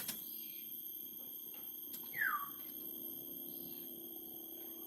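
A myna gives one short whistle that glides downward in pitch about two seconds in, over a steady high-pitched whine and low hum.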